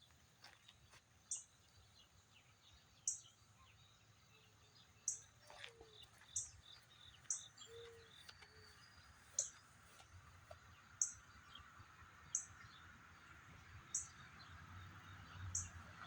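A bird repeating a short, high chirp about every one to two seconds over quiet outdoor background, with a faint low rumble building near the end.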